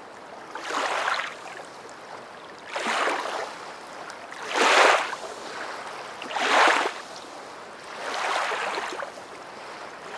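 Rushing water that swells and fades five times, about every two seconds, like waves washing in.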